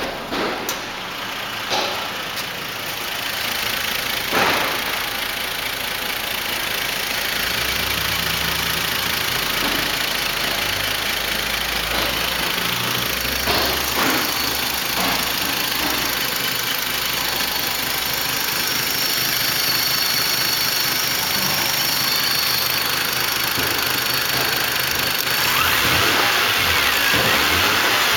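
Toyota Land Cruiser 80's 1FZ-FE 4.5-litre straight-six petrol engine idling steadily, after a few sharp clicks and knocks in the first seconds. The engine sound grows a little fuller near the end.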